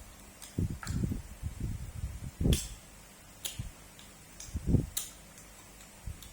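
A person chewing food up close, with soft low thumps and a few sharp wet clicks of the mouth and lips.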